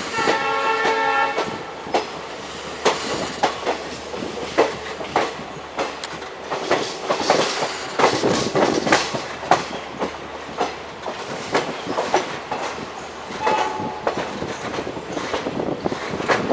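A train horn sounds for about the first two seconds. Throughout, train wheels clatter and knock irregularly over rail joints as the passenger train runs.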